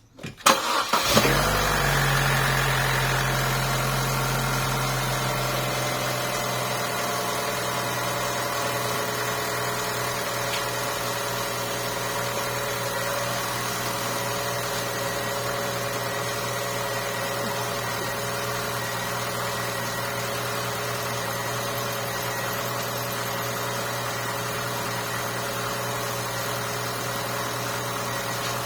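2014 Holden Cruze engine starting up with a brief crank and catch, then settling into a steady idle. It is being run to bleed trapped air out of the cooling system after a thermostat replacement.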